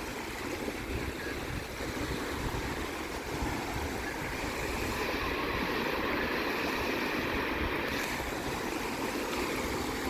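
Sea waves washing in steadily, with wind on the microphone; the surf swells a little in the middle.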